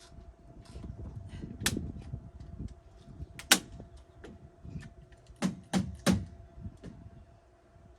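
Irregular knocks and sharp clacks of hard objects being handled. The loudest comes about three and a half seconds in, and three quick ones follow near six seconds. A faint steady hum runs underneath.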